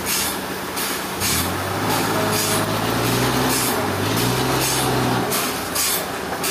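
Heavy machine engine running, its speed rising and falling a little, with repeated short bursts of hiss.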